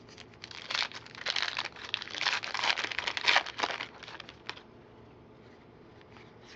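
Foil wrapper of a card pack being torn open and crinkled, a run of crackly rustling bursts that stops about four seconds in.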